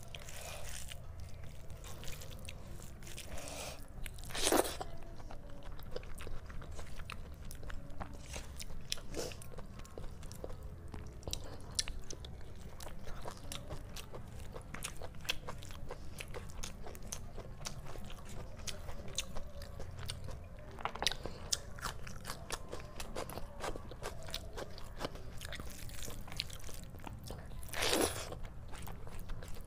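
Close-miked eating sounds: wet chewing and mouth clicks of rice and chicken curry eaten by hand, with fingers squishing rice into gravy on the plate. Two louder sharp sounds stand out, about four seconds in and near the end.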